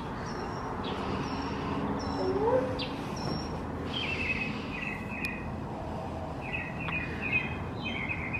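Birds calling over steady background noise: short high chirps about once a second, then from about four seconds in a lower stuttering chatter of quick repeated notes.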